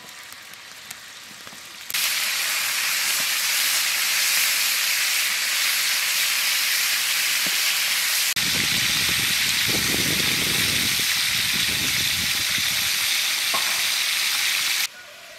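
Chicken pieces frying in oil in a large aluminium pot, a loud steady sizzle that starts suddenly about two seconds in and cuts off near the end. From about the middle, a skimmer scrapes and stirs through the pieces for several seconds.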